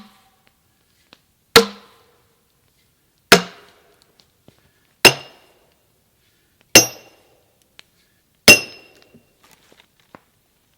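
Sledgehammer striking a steel splitting wedge driven into a chestnut log: five sharp blows about every 1.7 seconds, each a hard clink with a short metallic ring that grows clearer in the later blows.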